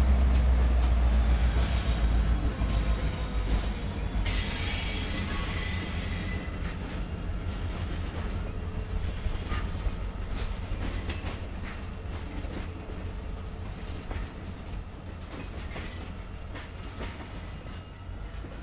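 Freight train passing: the diesel locomotives' deep engine drone and a high whine falling in pitch fade over the first few seconds. The freight cars then roll by with steady wheel-on-rail noise and scattered clicks.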